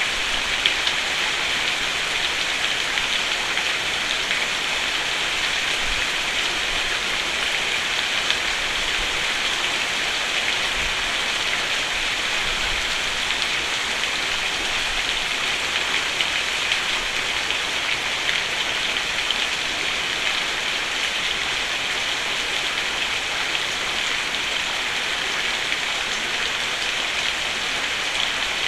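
Steady rain falling on a roof, an even hiss of many drops with small scattered louder taps.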